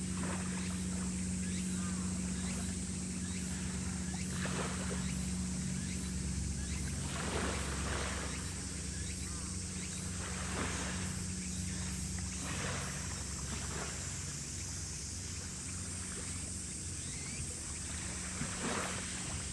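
Steady low drone of a naval ship's engines, one even hum over a deeper rumble, with a constant high hiss.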